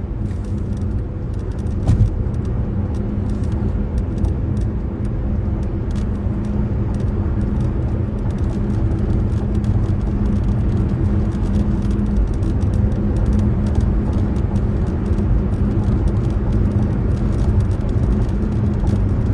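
A car's steady low engine and road rumble, with a few faint clicks.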